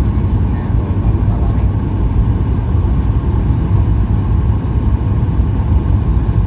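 Steady low rumble of cabin noise inside a Boeing 737-800 airliner, with no distinct events.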